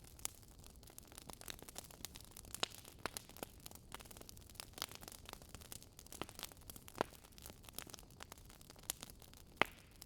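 Wood fire crackling: irregular sharp pops and snaps over a soft, steady hiss, one louder snap near the end.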